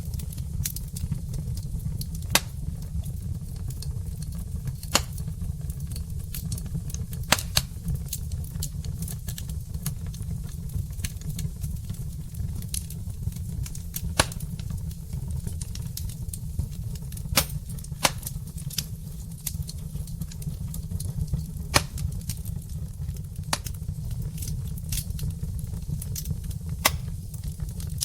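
Wood fire burning in a fireplace, crackling with sharp irregular pops every couple of seconds over a steady low rumble.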